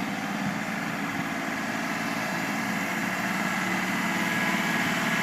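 Tractor engine running steadily, growing a little louder near the end.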